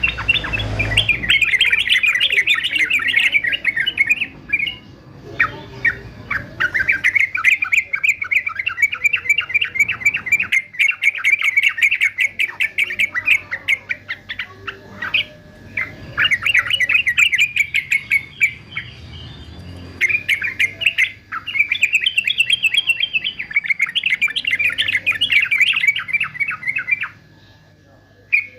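Male yellow-vented bulbul singing in long runs of rapid, chattering notes, broken by brief pauses, with a longer lull near the end.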